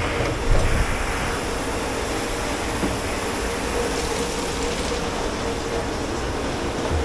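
Steady whirring and rushing of commercial kitchen machinery with a constant hum, and a short knock about half a second in.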